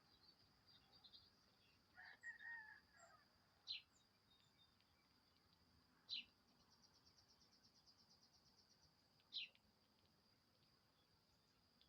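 Faint outdoor wildlife ambience. A steady high-pitched drone turns into a fast trill for a few seconds in the middle. Three short, sharp bird chirps come a few seconds apart, with a lower call lasting about a second near the start.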